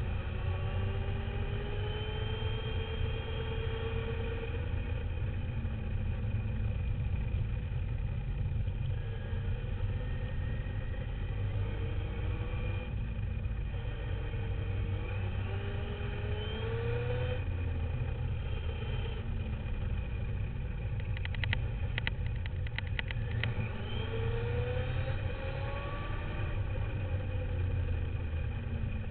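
Radio-controlled dirt bike's motor heard from a camera mounted on the bike, its whine rising and falling in pitch with the throttle over a steady low rumble. A quick cluster of sharp clicks or rattles comes about three quarters of the way through.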